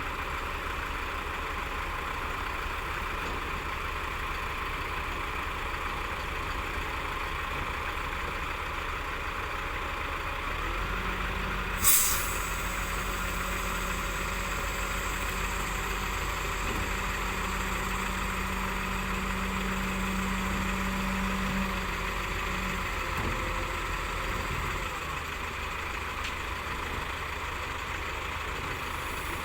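Diesel engines of heavy earthmoving machinery running steadily. About ten seconds in a deeper, heavier engine note joins and holds until it fades out near the end. Just after it joins there is one short, sharp burst of air hiss, like an air brake being released.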